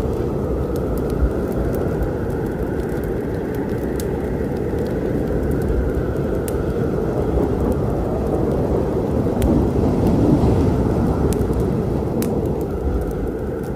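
Thunderstorm: a long low roll of thunder over steady rain, the rumble swelling about two-thirds of the way through. Occasional sharp pops of a wood fire crackling sound over it.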